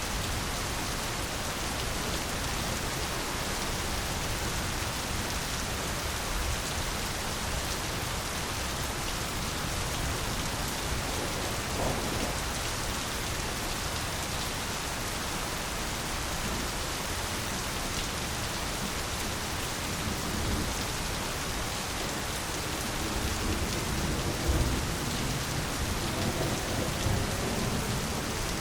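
Steady, dense rain falling, with a low rumble of thunder near the end.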